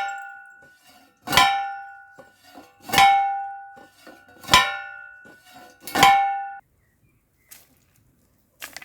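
A manual post driver being lifted and dropped onto a wooden fence post, striking four times about a second and a half apart, each blow a metallic clang that rings on; the blows stop partway through as the post is driven home.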